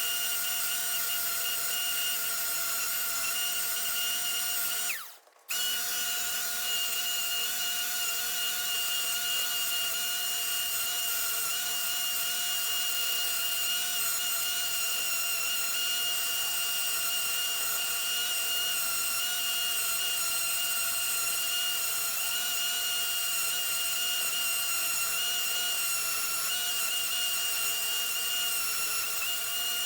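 Electric power tool motor running at a steady speed with a high whine. About five seconds in it is switched off, its pitch winding down, and it starts again about half a second later.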